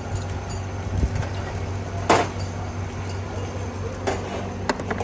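Metal tools clinking and knocking against engine parts in a few separate strokes, the loudest about two seconds in, over a steady low machine hum.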